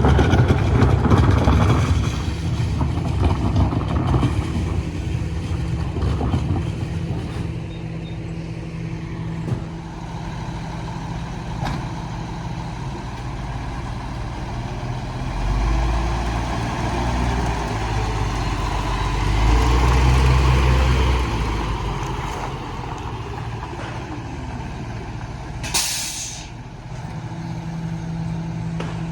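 Mini rear-loader garbage truck's engine running, rising in speed twice, with a short sharp hiss of air released near the end.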